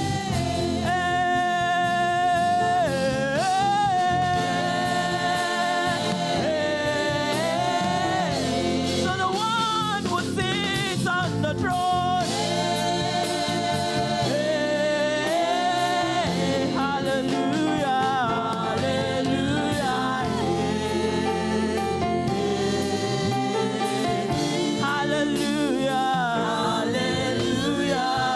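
Church choir singing gospel praise with instrumental backing, the voices carrying a steady, continuous melody.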